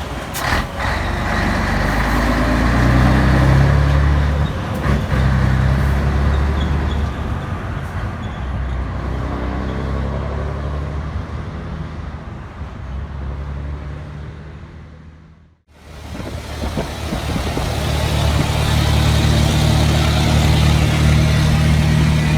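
Scania 113 truck diesel engines running with a deep exhaust rumble. The note climbs in the first few seconds, then slowly drops and fades out about fifteen seconds in. The engine sound comes back up and runs steadily to the end.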